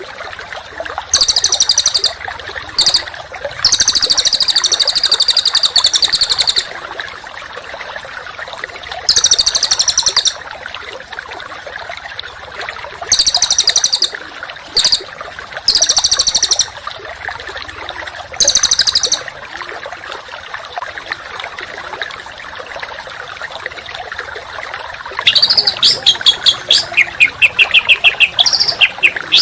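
Small songbird giving loud bursts of rapid, harsh, very high-pitched trills, each lasting about a second or two with short gaps between them, over a steady background hiss. These are the dense, rough 'tembakan' bursts that birdkeepers use as masteran material. Near the end, a quick run of repeated notes falls in pitch.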